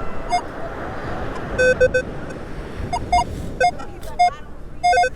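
Metal detector sounding short beeping tones over a buried target: three lower beeps about one and a half seconds in, then several higher paired beeps later. A steady rushing background noise runs underneath. The target reads in the 30s on the detector, which the detectorist takes for aluminum.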